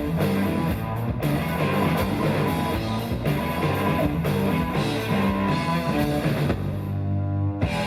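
Live rock band playing the instrumental end of a song on electric guitar, bass and drums. Near the end it stops on one sustained chord.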